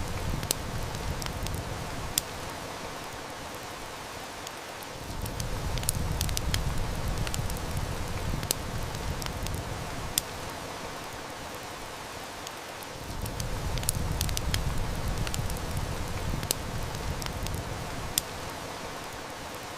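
Steady heavy rain with a wood fire crackling, its sharp snaps coming frequently and irregularly. A low rumble swells and fades roughly every eight seconds.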